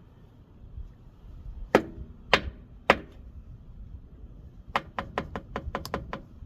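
Sharp knocks of something hard being struck: three separate knocks about half a second apart, then a quick run of about eight knocks near the end.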